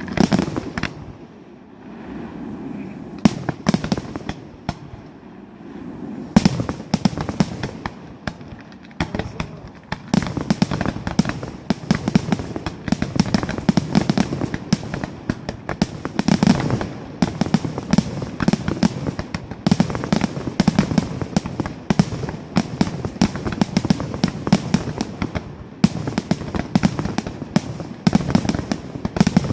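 Aerial fireworks display: shells launching and bursting in quick succession, with booms and crackle. Sparser in the first few seconds, then from about ten seconds in a dense, almost unbroken barrage typical of a finale.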